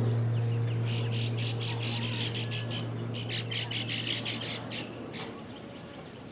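Baya weaver birds chattering: a fast run of short, sharp calls, several a second, from about a second in until about five seconds in, over background music fading out.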